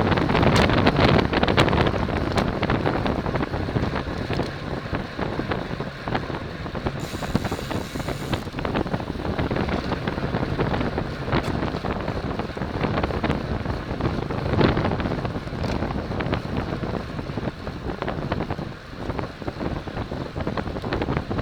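Wind rushing over the microphone of a cyclist's camera at road-racing speed, a steady loud rumble mixed with tyre and road noise, with scattered small clicks.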